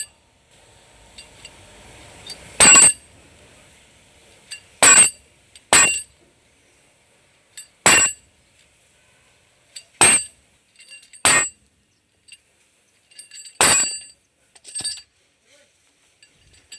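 Sharp metal-on-metal strikes, each with a short high ring, about seven of them at uneven intervals one to two seconds apart, as metal parts of a truck differential are struck or knocked together.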